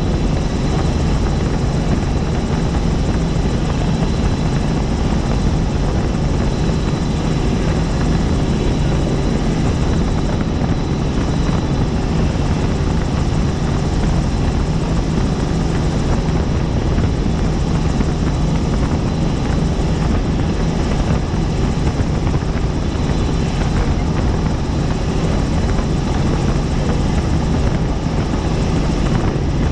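Helicopter in flight: steady, loud rotor and turbine noise with a thin high whine held throughout.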